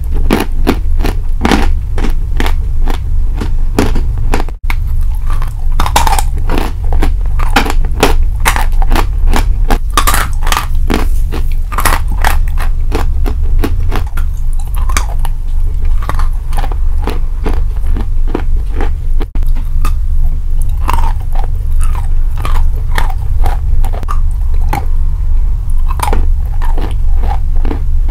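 Close-miked chewing of sawn chalk: rapid, dense crunching and crackling of the chalk between the teeth, over a steady low hum.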